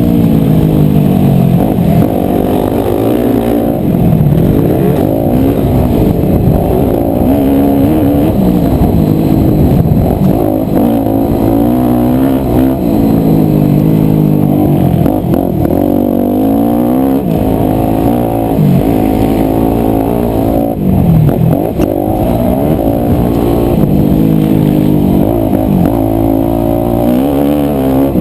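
A 250cc four-stroke motocross bike engine revving hard and falling off again and again as it is ridden around the track, pitch climbing through each rev and dropping at each shift or corner.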